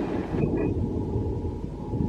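Departing passenger train running away from the listener: the clatter of its wheels drops off about half a second in, leaving a steady low rumble.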